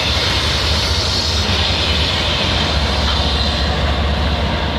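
CN Q148 intermodal freight train passing close by: a steady, loud rumble of diesel locomotives and rolling cars on the rails.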